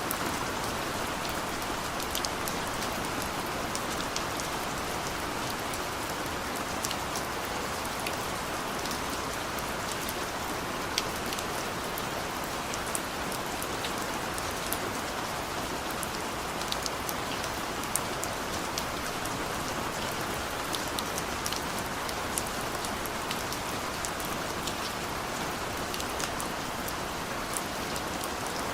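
Steady rain falling, a dense even hiss with many sharp, close drop hits ticking irregularly through it.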